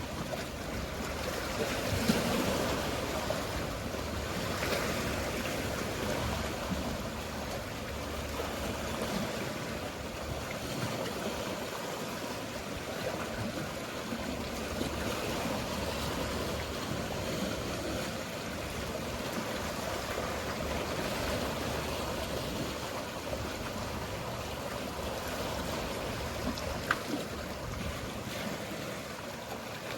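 Mediterranean sea waves washing steadily, with a low hum of boats underneath. The wash swells twice in the first few seconds, and there is one sharp click near the end.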